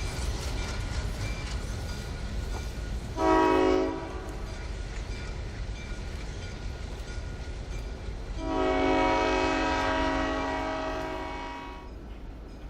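Diesel locomotive, an MLW six-axle unit, with its engine rumbling steadily while its air horn sounds a chord: one short blast about three seconds in, then one long blast of about three and a half seconds that fades away.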